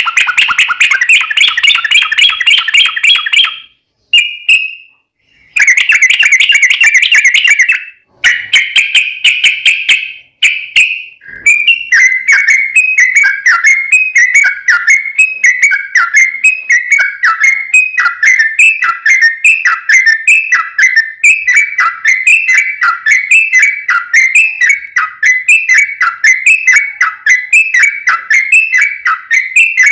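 Yellow-vented bulbul (trucuk) song played as a lure recording. It opens with loud, rapid rolling trills broken by short pauses, then settles into a long run of quick, falling whistled notes repeated about twice a second.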